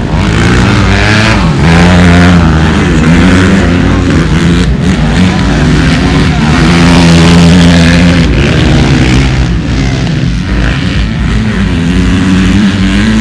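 Motocross motorcycle engines revving, the pitch climbing and dropping again and again with the throttle.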